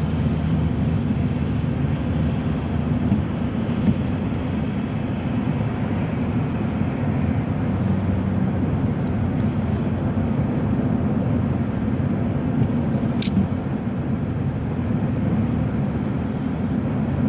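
Steady low road and engine noise inside a moving car, with one short sharp click about three-quarters of the way through.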